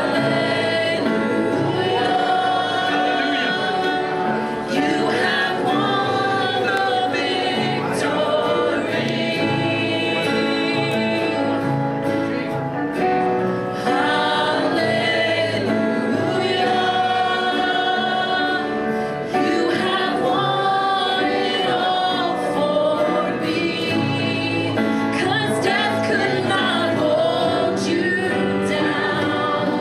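Gospel worship music: several voices singing a worship song together over instrumental backing.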